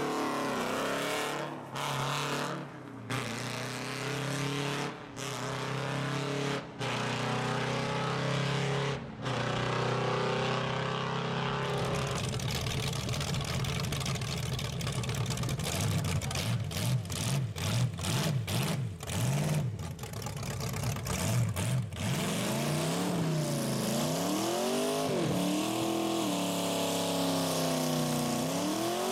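Rat rod engines running and revving, heard in several short clips joined by abrupt cuts; in the middle the throttle is blipped rapidly, and near the end the revs sweep up and down repeatedly.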